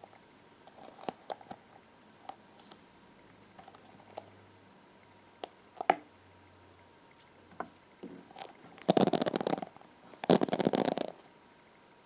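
Hairbrush handled close to the microphone: scattered light taps and clicks, then two loud scratchy rasps of about a second each near the end, as the bristles are scraped.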